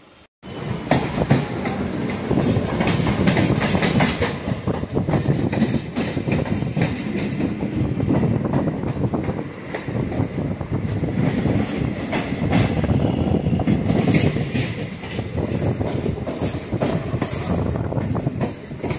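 Train running on the rails, heard from an open window or door of the moving train: a continuous rumble with rapid wheel clatter over the rail joints, starting about half a second in.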